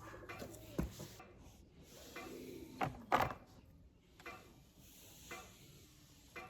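A few scattered knocks and clunks, the loudest pair about three seconds in, with faint uneven background between them.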